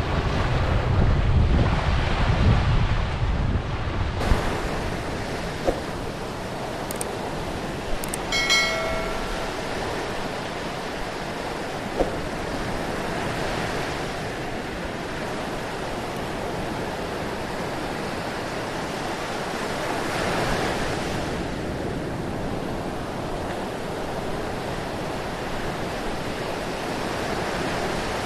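Sea waves washing in as a steady rush of surf, with wind rumbling on the microphone for the first four seconds. A brief pitched call sounds about eight and a half seconds in.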